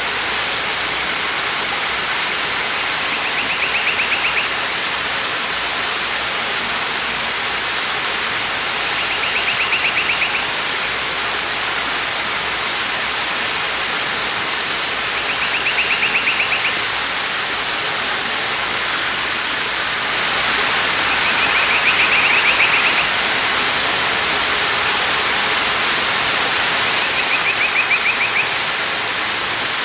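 Waterfall: a steady rush of falling water, swelling slightly about two-thirds of the way through. Over it a bird repeats a short, rapid trill about every six seconds, five times.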